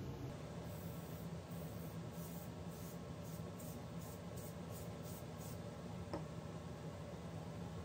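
Aerosol spray can hissing in a series of short spurts, about three a second, over a steady low hum. A single light tap follows a little after the spraying stops.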